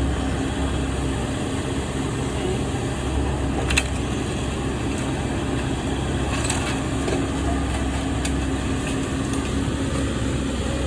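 An engine running steadily at an even pitch, with one sharp click about four seconds in.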